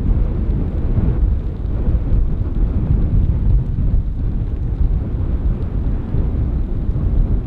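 Steady low rumble of an airliner's engines, mixed with wind buffeting the microphone.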